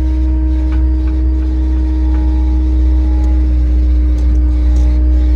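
Skid steer engine running steadily: a loud, even low rumble with a steady hum on top, heard from the machine's seat.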